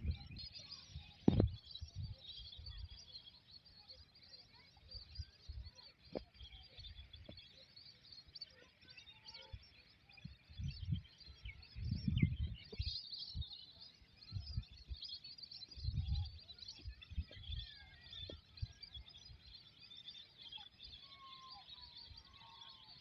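Many small birds chirping continuously in a dense, high chatter, with a few lower chirps near the end. Irregular low bumps come and go underneath, loudest about a second in and around the middle.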